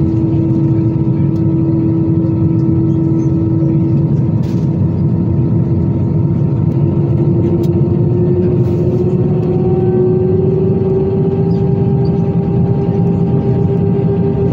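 Jet engine noise heard inside the cabin of an Airbus A320-214 with CFM56-5B engines: a steady roar carrying a whine that rises slightly in pitch between about six and ten seconds in, as a second, higher whine joins it.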